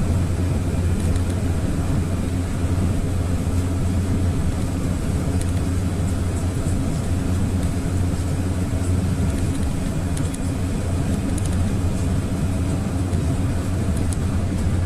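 Steady low drone of a GAZelle light van's engine and road noise, heard from inside the cab while cruising on the highway.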